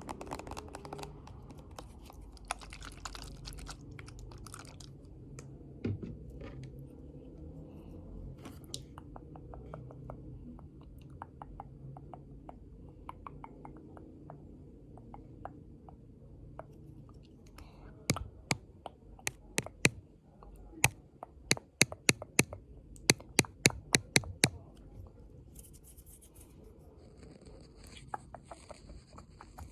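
Close-miked ASMR trigger sounds made by hand: a few seconds of scratchy, crinkly rubbing, then scattered light clicks, then a run of sharp taps, two or three a second, for several seconds. Near the end a softer, higher scratching takes over.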